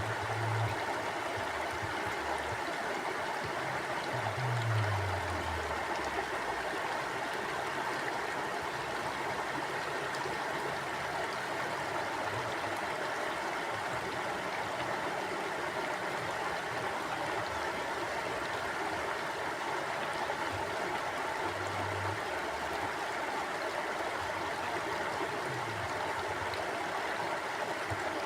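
Mountain stream flowing steadily over rocks, a continuous rushing and gurgling of water, with a few soft low thumps at times.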